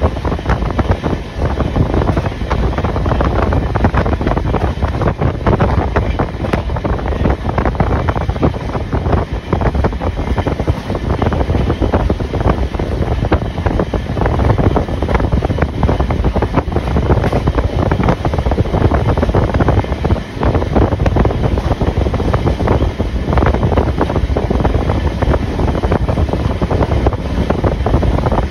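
Passenger train running at speed: a loud, steady rumble and rattle of the carriage on the rails, with wind rushing over the microphone.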